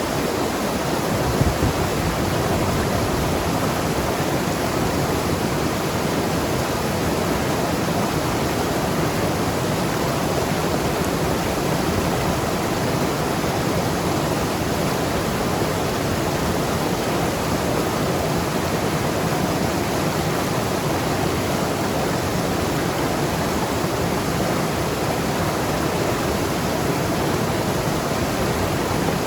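Mountain river rushing and gurgling over rocks, a steady full rush of water with a brief low thump about a second and a half in.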